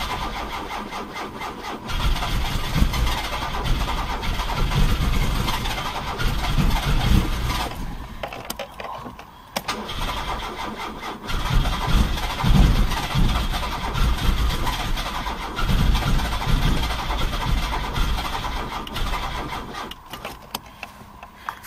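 Carburetted engine being cranked and trying to start, in two long attempts with a pause of a few seconds between them. The engine has a no-start fault after contaminated fuel was purged and the carburettor adjusted.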